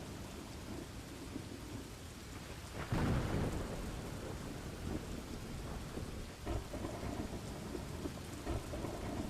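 Steady rain falling with thunder rumbling, and a louder burst of thunder about three seconds in.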